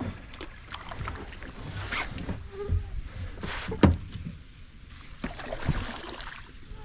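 Kayak being paddled: irregular paddle strokes splashing in the water, with a few sharp knocks, the loudest about four seconds in.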